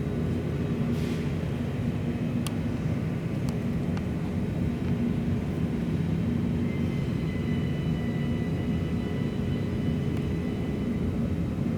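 Steady low mechanical hum and rumble of machinery or ventilation in the building, with a few faint clicks a few seconds in and a faint high whine joining about seven seconds in.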